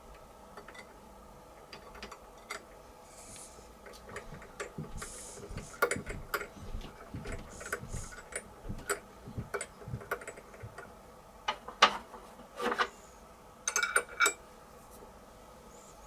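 Irregular metallic clicks, clinks and knocks of a tap and tap wrench being worked by hand in a small threaded hole in aluminium plate, with a few short scraping sounds, over a faint steady hum.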